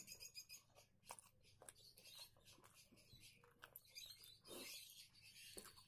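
Faint eating sounds: rice being chewed with small wet clicks and smacks of the mouth, and fingers gathering rice on the plate.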